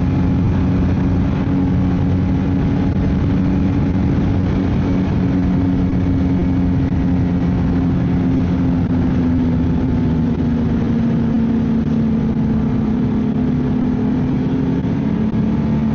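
Ski-Doo snowmobile engine running steadily while riding along the trail. Its note eases slightly lower about ten seconds in.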